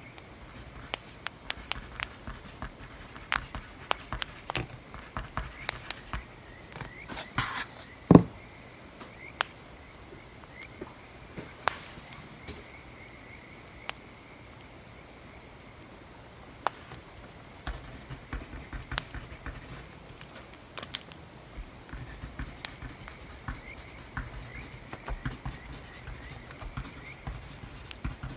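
Wood fire crackling, with scattered sharp pops at irregular intervals; the loudest pop comes about eight seconds in.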